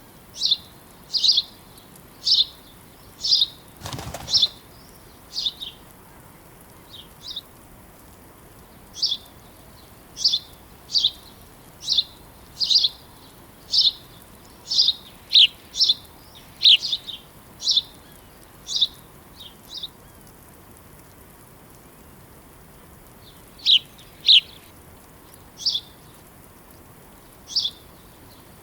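Small birds chirping: short, high single chirps repeated about once a second, with a pause of a few seconds after the middle. A brief whoosh comes about four seconds in.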